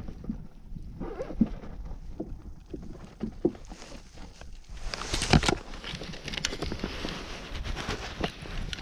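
Scattered knocks and handling noises on a kayak while a hooked fish is being played, with one louder knock about five seconds in.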